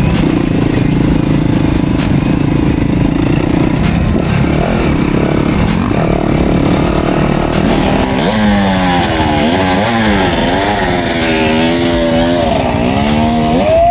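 Off-road motorcycle engine running at a steady pitch, then from about two-thirds of the way through revving up and down repeatedly as the throttle is worked.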